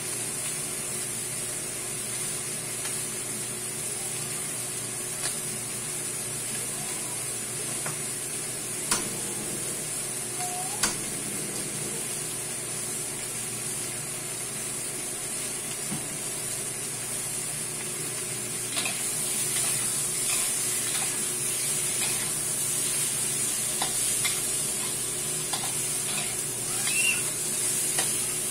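Food sizzling as it fries in a hot pan, a steady hiss that grows a little louder in the second half, with a couple of sharp clicks.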